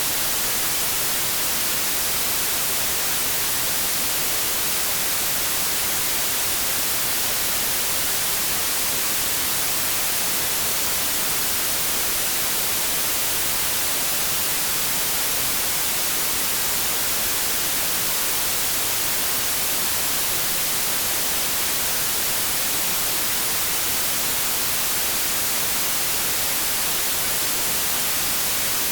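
Continuous white noise: a steady, even hiss that is strongest in the treble and does not change.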